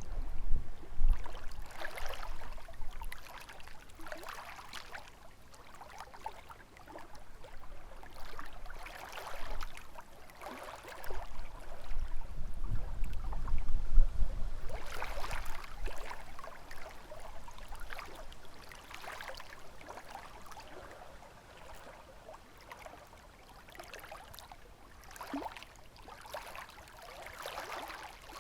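Small lake waves lapping and splashing against the shore every couple of seconds. Gusts of wind rumble on the microphone near the start and again about halfway through.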